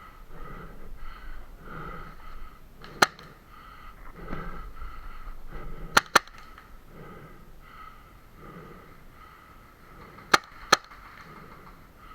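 Paintball marker firing five sharp shots: one about three seconds in, a quick pair about six seconds in and another pair near the ten-second mark, over fast, heavy breathing.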